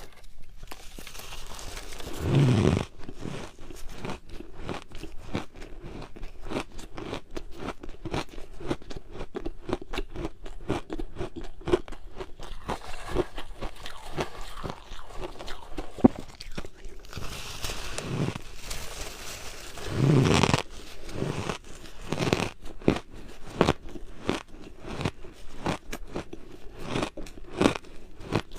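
Close-up crunching of ice being bitten and chewed: a dense run of sharp cracks and crackles, with louder bites about two seconds in and twice near the two-thirds mark.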